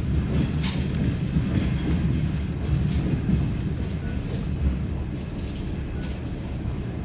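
Steady low rumble of a DR1A diesel train running, heard from inside the carriage, with a few sharp knocks from the running gear.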